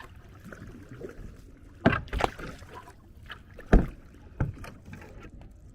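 Kayak being paddled through flooded brush: paddle strokes in the water with four sharp knocks, the third the loudest, as the paddle and hull strike branches.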